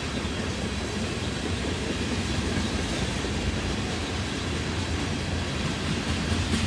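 Freight train cars rolling past on the main line: a steady rumble of steel wheels on rail, with no break or change.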